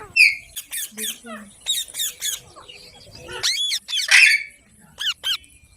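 Green parrot screeching and squawking in a string of short, sharp, high-pitched calls. The loudest is a harsh squawk about four seconds in, followed by two quick calls.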